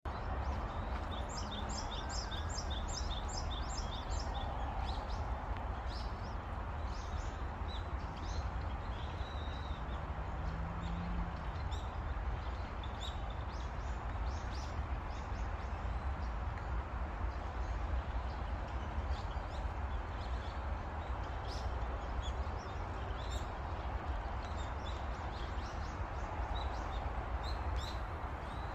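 Birds chirping in short high calls, with a quick run of about eight notes near the start, over a steady low rumble and hiss of outdoor background noise.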